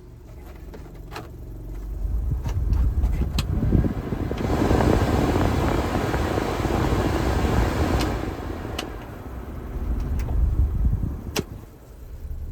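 Suzuki Carry kei truck's 660 cc three-cylinder engine running, with vehicle noise swelling over the first two seconds and staying loud through the middle before easing near the end. A few sharp clicks sound along the way.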